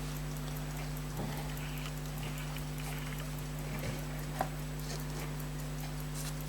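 Steady electrical mains hum with faint, quick, even ticking about five times a second, and a few light clicks of handling, the sharpest about four and a half seconds in.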